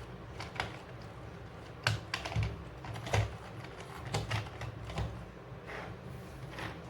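Irregular light clicks and knocks of hard plastic toy parts being handled, as toy cars and the toy transport truck are moved and loaded, loudest about two and three seconds in.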